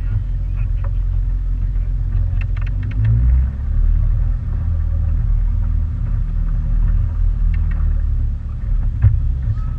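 Motorboat under way, a steady low rumble with a few light knocks scattered through it.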